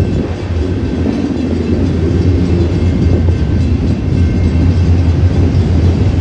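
Union Pacific autorack freight cars rolling past on the rails, a steady low rumble of steel wheels on track.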